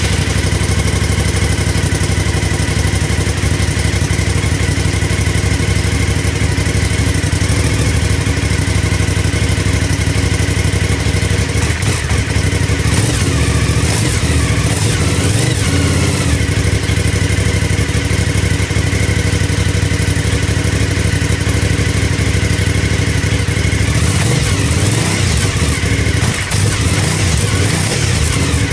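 Suzuki TL1000S's 90-degree V-twin idling steadily through its stock exhaust, just after a cold start.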